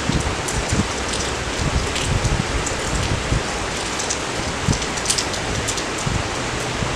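Steady rain falling, an even hiss with scattered individual drops striking close by.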